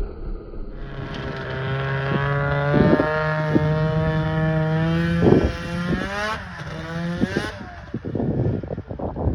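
Two-stroke engine of an Arctic Cat Cougar 550 snowmobile, fitted with a new muffler, running hard at a steady high pitch from about a second in; near the end the pitch wavers and the engine sound drops away, leaving gusty noise.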